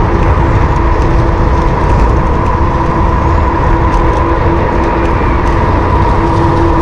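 Wind rumbling over the camera microphone on a moving electric bike, with a steady whine from the bike's electric motor held at an even pitch.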